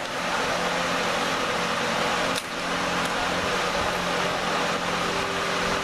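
Steady fan-like whir with a low hum, with a couple of light clicks about two and a half and three seconds in.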